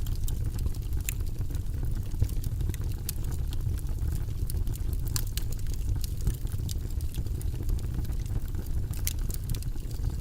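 Wood fire burning in a fireplace: a steady low rush of flames with frequent, irregular sharp crackles and pops from the burning logs.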